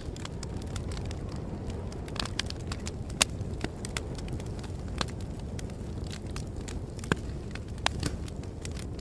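Wood fire crackling, with irregular sharp pops over a steady low rumble. The loudest pops come about three, seven and eight seconds in.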